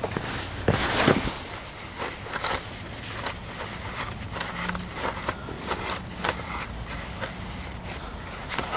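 A string of short clicks and scrapes from someone moving about and handling things, with a louder scrape about a second in.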